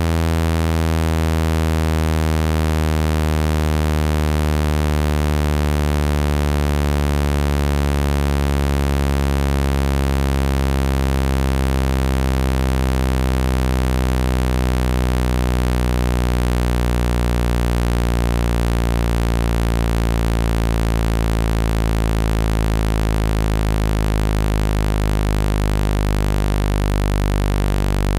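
Low, buzzy synthesized tone with many overtones, slowly falling in pitch: a speaker water-ejection tone, played loud to vibrate water out of a phone speaker.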